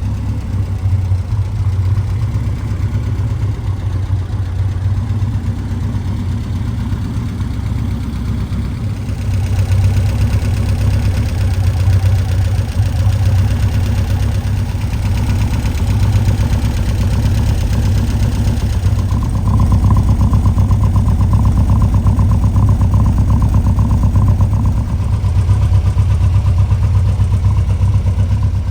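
A 1961 Lotus Seven S2's four-cylinder engine running steadily, getting louder about nine seconds in and again about nineteen seconds in.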